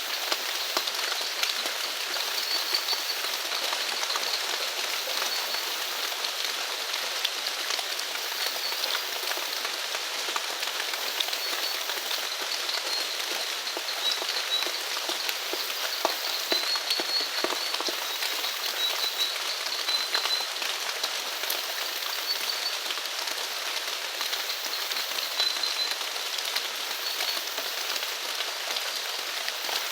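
Steady rain falling, with many individual drops ticking close by. Short high chirps from small animals call on and off behind it.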